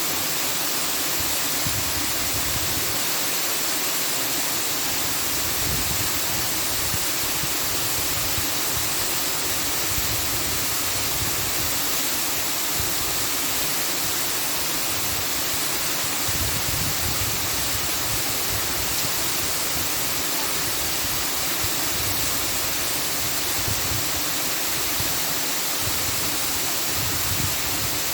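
A steady, unbroken rushing noise that does not change in level.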